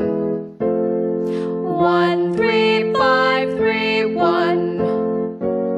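A voice sings a short vocal-warm-up arpeggio (1-3-5-3-1) with a slight waver on the notes, over sustained accompaniment chords. The chords break off and restart about half a second in, and change again near the end.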